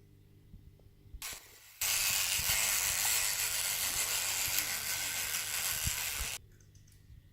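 A fishing reel cranked in a steady, fast mechanical rattle for about four and a half seconds, starting and stopping abruptly, after a brief first turn.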